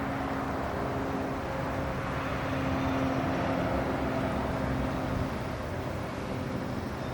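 A motor running steadily, a low hum with a few held tones over a wash of noise.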